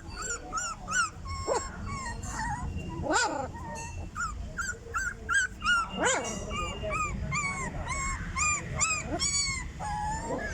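A dog whimpering and yipping in a rapid series of short high whines, about three a second, broken by a few longer calls that fall in pitch.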